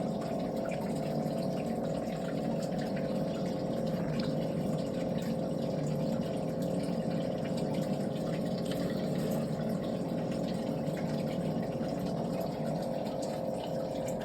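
A steady mechanical hum with a whirring, pump-like noise, unchanging throughout, with faint scattered ticks above it.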